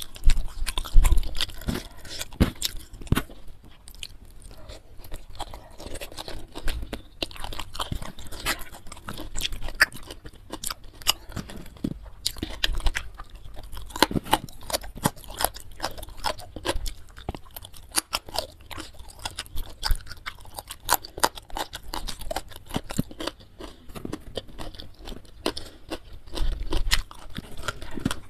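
Close-miked chewing and crunching of a meal of fried carp with rice and sambal, eaten by hand: a steady run of short wet clicks and crunches, with a few heavier bites about a second in.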